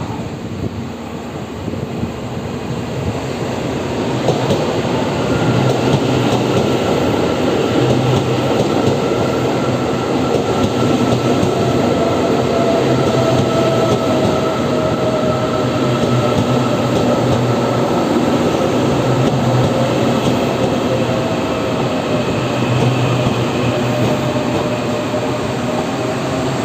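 Electric multiple unit local train running into a station and slowing to a stop. It rumbles over the rails with a thin steady whine that slowly drops in pitch as it brakes.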